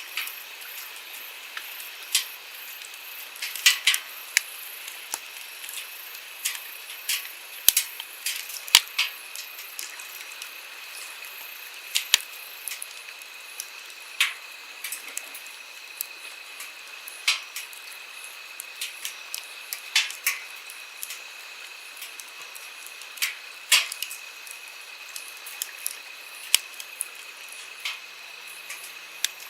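Wood campfire crackling, with sharp, irregular pops every second or so, over the steady rush of a flowing stream.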